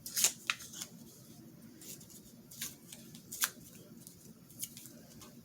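Sheet-music paper being torn by hand and handled: several short, sharp rips and rustles, the loudest near the start and a little past the middle.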